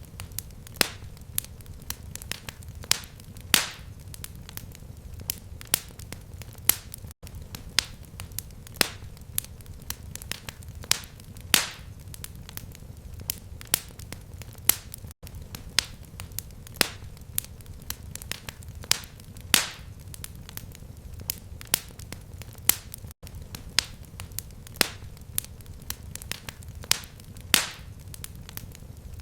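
Fireplace fire crackling and popping in sharp, irregular snaps over a low steady rumble. The recording is a loop: the same eight-second stretch of pops repeats, with a brief dropout at each seam.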